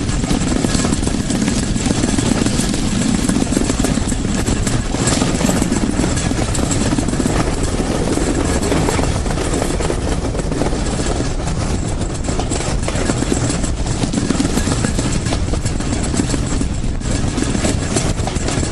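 Steady, loud rumbling noise with no clear beat, like a train in motion with wind on the microphone.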